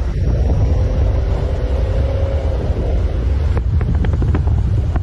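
Wind buffeting a phone's microphone outdoors, making a loud, steady low rumble.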